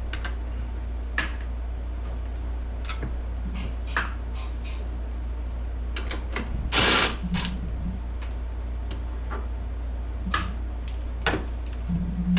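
Short runs of a power driver backing out hood bolts, the loudest burst about seven seconds in, with scattered clicks and clinks of tools and bolts. A steady low hum runs underneath.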